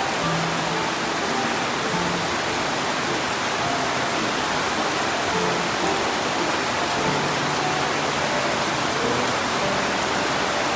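Steady rain falling in a garden, an even hiss. Short pitched notes are scattered through it.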